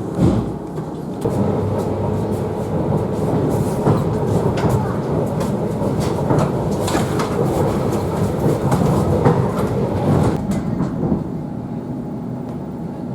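Electric commuter train running, heard from inside the carriage: a steady rumble with clicks of the wheels over rail joints and a faint steady hum. The noise eases a little after about ten seconds.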